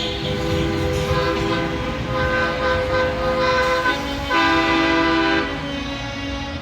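Truck air horns blowing several long, multi-note blasts, each held for a second or more, over the low rumble of diesel engines.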